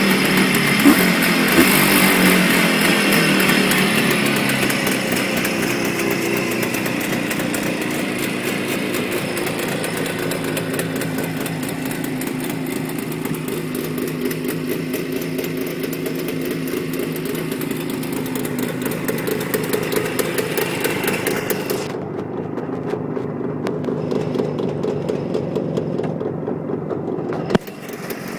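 Jawa 638 motorcycle's two-stroke twin-cylinder engine running after a cold start, its revs easing down over the first few seconds and then holding a steady idle.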